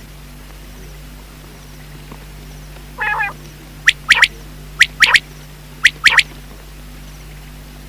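Common quail calling: a short nasal note about three seconds in, then three sharp, high whistled notes, each doubled, in quick succession.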